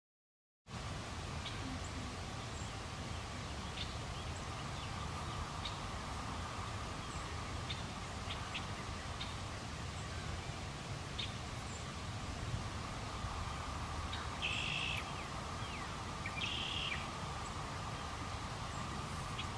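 Open-air background noise with birds: scattered short chirps throughout and two louder, brief bird calls about three quarters of the way through. It starts suddenly a moment in, after a brief silence.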